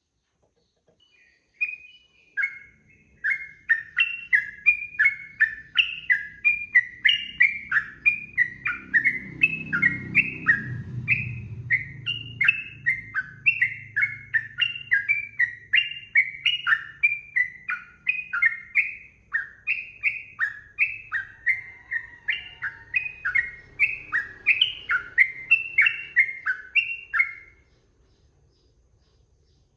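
Sooty-headed bulbul (trucukan) singing a long unbroken run of quick, sliding whistled notes, two or three a second, the fast continuous 'ropel' song; it stops about two seconds before the end.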